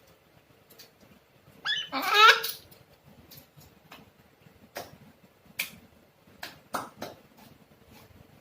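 Congo African grey parrot giving a loud, wavering, laugh-like call about two seconds in, followed by several short sharp clicks.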